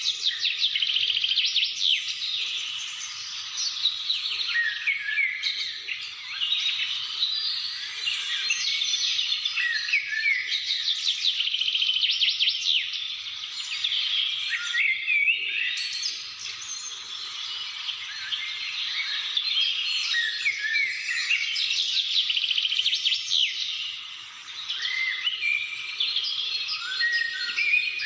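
Several songbirds singing and chirping at once, a dense chorus of quick trills, rapid chirps and short sweeping notes, briefly thinning out around twenty-four seconds in.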